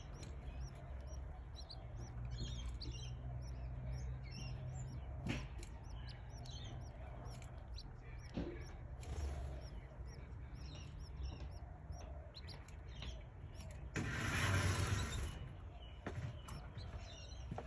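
Canary chicks cheeping: many short, high chirps repeated throughout over a low steady hum, with a brief louder rush of noise about fourteen seconds in.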